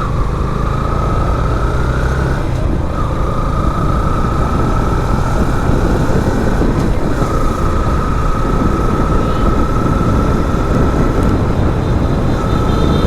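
Motorcycle engine running at road speed, with dense wind and road rumble on the rider's microphone; a thin steady whine rises slightly and breaks off briefly three times.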